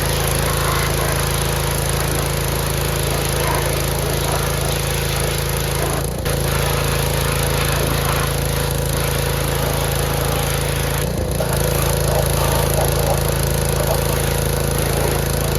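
A small motor running steadily with a constant hum, briefly dipping about six and eleven seconds in.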